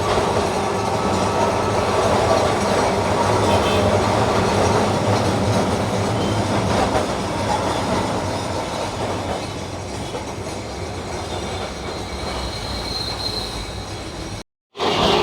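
Electric tram running on its rails, a steady rumbling run with thin high wheel squeal. The noise eases about nine seconds in, and near the end there is a short gap of silence.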